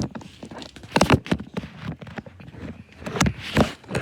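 Irregular knocks and thumps close to the microphone, bunched about a second in and again past three seconds.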